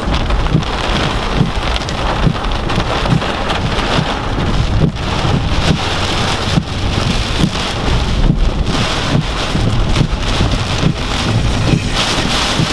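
Heavy rain and wind of Hurricane Irma pelting down, a dense steady hiss with a low rumble and many irregular knocks of rain striking a surface.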